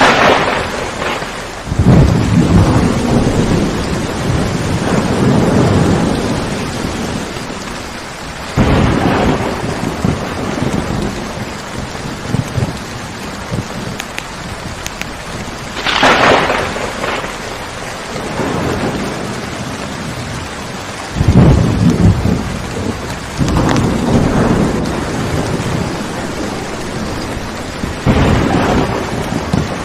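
Steady heavy rain with repeated thunder: several rolls that each start suddenly and fade over a few seconds.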